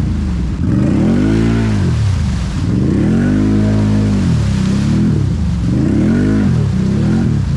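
Can-Am Renegade 1000 XMR ATV's V-twin engine revving up and down several times, with a noisy hiss over it, while the quad is high-centred in a mud rut and being driven to get free.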